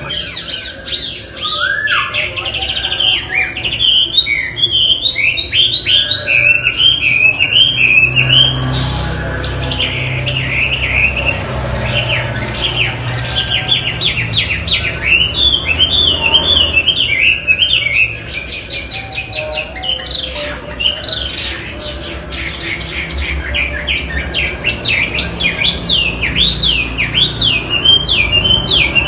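Chinese hwamei (melodious laughing thrush) singing a loud, unbroken song of rapid rising-and-falling whistled notes, a little quieter for a few seconds past the middle.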